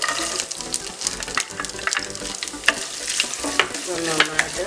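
Chopped coconut sizzling as it drops into hot coconut oil in a non-stick frying pan, with many sharp crackles, and then frying while a wooden spatula stirs it through the oil.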